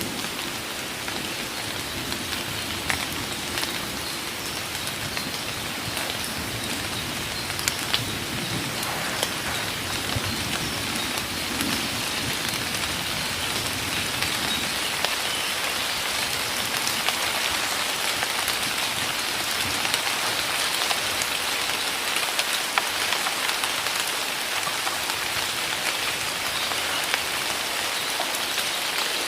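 Heavy rain pouring down in a forest: a steady, even hiss with many small, sharp drop hits scattered through it.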